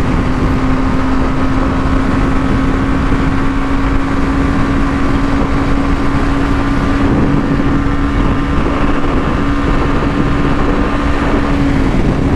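BMW G 310 GS's single-cylinder engine pulling hard at high speed, a steady drone creeping slightly higher in pitch under heavy wind rush; the drone drops away near the end as the throttle eases.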